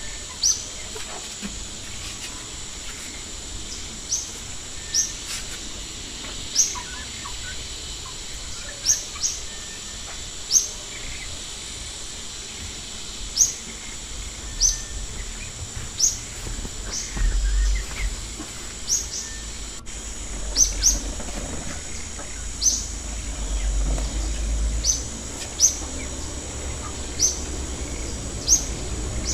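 Birds chirping: short, high, sharp chirps, one every second or so at uneven intervals, over a steady high-pitched whine and bouts of low rumble.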